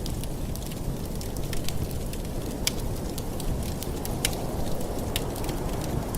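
Wood fire in a fireplace crackling: irregular sharp pops and snaps, a few louder than the rest, over a steady low rush of burning.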